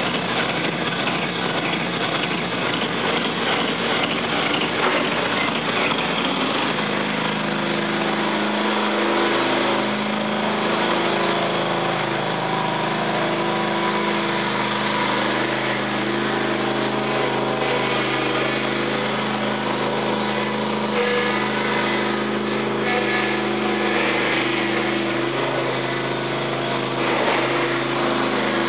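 Ride-on lawn tractor's small petrol engine running, uneven for the first six seconds or so, then settling into steady, even running.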